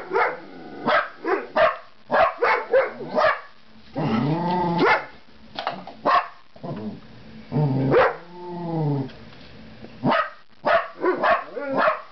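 Two dogs, a Jack Russell terrier among them, barking excitedly in quick sharp barks, with two longer drawn-out whining yowls about four and eight seconds in: alert barking at a bird outside the glass door.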